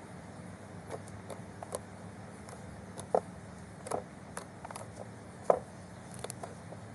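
Slime being squeezed and stretched by hand, giving irregular small clicking and popping sounds, a couple of them sharper than the rest, over a steady low hum.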